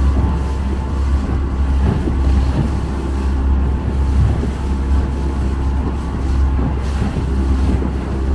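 Motorboat engine running steadily under way, a continuous low drone with rushing noise over it.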